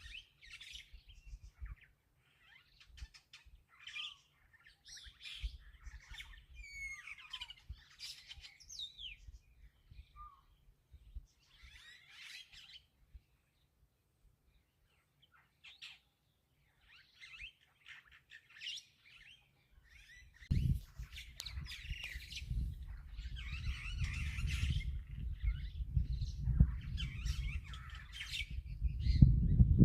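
Several birds chirping and calling in short, scattered phrases. About two-thirds of the way in, a low, uneven rumble sets in under the birdsong and grows louder towards the end.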